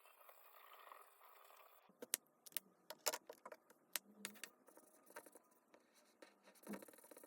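Faint hiss, then from about two seconds in a scatter of sharp little clicks and taps with light scratching, as hands handle plastic toys and packaging.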